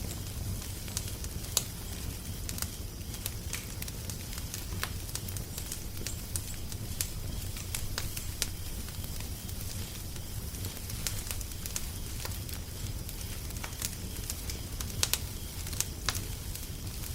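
Wood fire crackling, with irregular sharp pops and snaps over a steady low rumble and soft hiss; a few louder pops come about a second and a half in and near the end.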